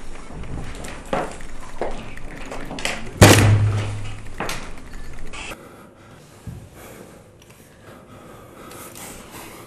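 A series of knocks and thuds. The loudest is a heavy slam-like thump about three seconds in, which leaves a low boom ringing for about a second. It goes quieter after the middle.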